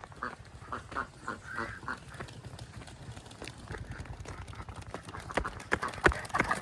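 Ducks quacking: a quick run of short calls in the first two seconds, and more toward the end, with a few sharp knocks.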